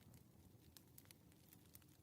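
Faint crackling of a wood fire: irregular sharp pops and snaps, several a second, over a soft low rumble of flame.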